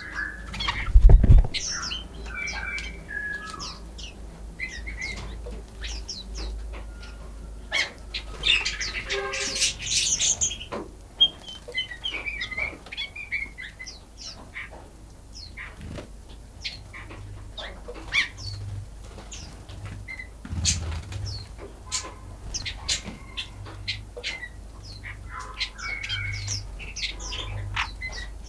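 Many wild songbirds chirping and singing, with short calls and trills overlapping throughout. About a second in there is a brief low thump, the loudest moment, and near the middle a harsh rasping stretch of about two seconds.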